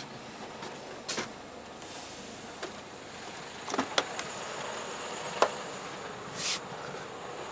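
Scattered clicks and knocks over steady background noise, with a short hiss about six and a half seconds in.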